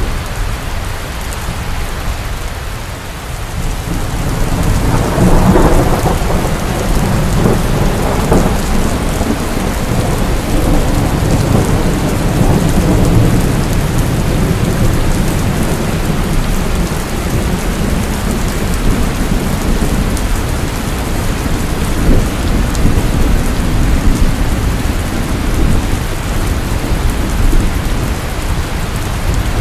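Heavy rain pouring steadily, with thunder rumbling underneath; a louder roll of thunder swells about five seconds in and dies away over several seconds.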